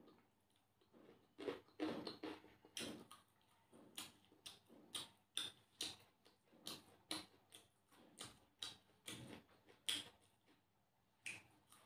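Close-up eating sounds: a person chewing with lips smacking, making short, wet clicks at an uneven pace of about two a second, starting about a second in.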